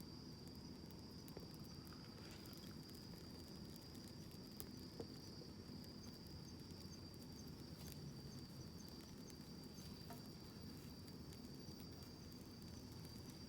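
Quiet outdoor wood campfire with a few faint, sparse crackles and pops, over a steady high-pitched trill of crickets.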